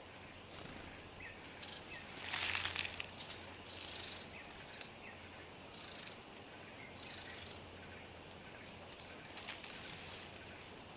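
Steady high-pitched drone of forest insects, with several short bursts of rustling, the loudest about two and a half seconds in.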